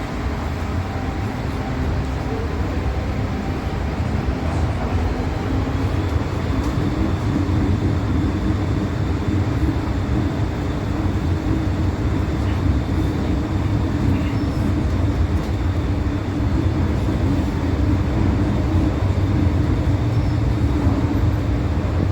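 MTR M-Train electric multiple unit running between stations: steady rumble of wheels on rail with a motor whine that comes in about six seconds in and grows slightly louder.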